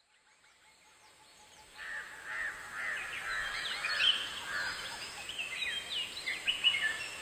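A flock of birds calling together: many short, overlapping calls in a dense chorus, fading in over the first two seconds and then going on steadily.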